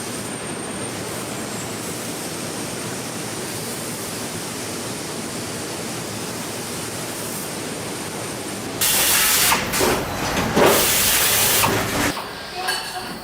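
Car factory machinery noise: a steady hiss, then about nine seconds in a much louder, uneven hissing that lasts about three seconds before dropping back.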